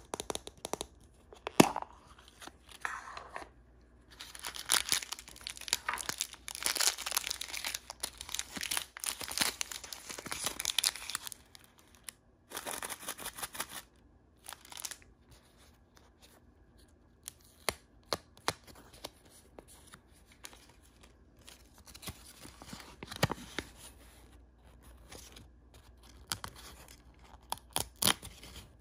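Blind-bag and egg packaging being torn open and crinkled by hand. A long stretch of tearing and rustling runs through the first half, a shorter burst follows, and then come scattered small clicks and rustles.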